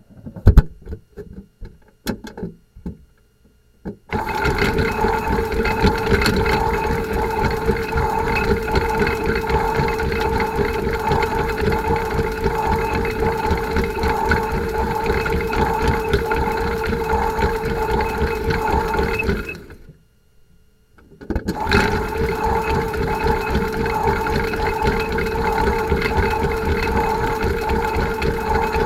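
washMATIC toy washing machine's small electric motor running with a steady hum and whine after a few opening clicks and knocks. It stops for about two seconds about two-thirds of the way through, then starts again.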